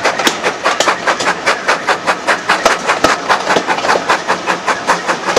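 A train running, with a loud, fast and even rhythmic clatter of about six or seven beats a second.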